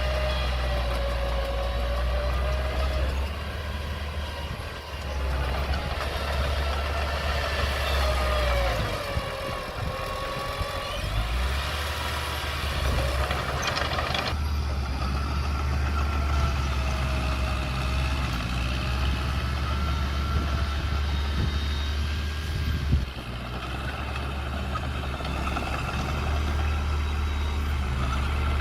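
Komatsu mini bulldozer's diesel engine running steadily under load as it pushes earth. A high whine rides on top of it, wavering slowly up and down in pitch.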